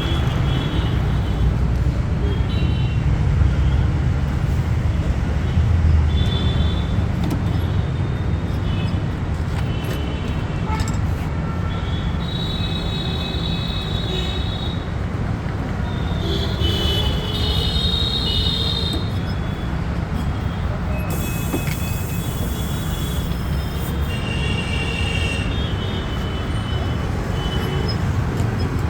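Steady low rumble of road traffic, with short high-pitched tones coming and going. A burst of hiss comes about three-quarters of the way through.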